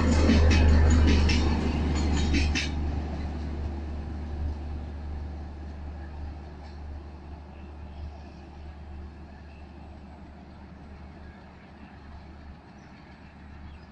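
LHB passenger coaches rolling past on the track, with a run of sharp wheel clicks over the rail for the first few seconds. The train's rumble then fades steadily as it runs away into the distance.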